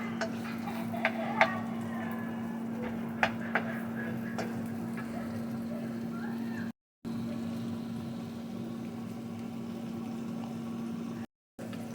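Onion, bacon and bell pepper sizzling in a frying pan under a steady low hum, with a few sharp clinks of a utensil against the pan in the first few seconds. The sound cuts out completely twice, briefly.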